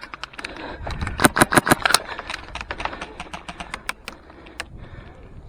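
HPA airsoft rifle (Polarstar Fusion Engine) firing strings of rapid shots, about six or seven cracks a second, with quieter scattered shots later on.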